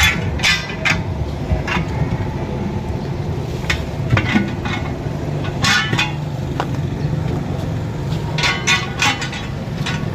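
Sharp metallic clinks and taps, some in quick clusters, from tyre-repair tools working on a truck wheel, over a steady low mechanical hum.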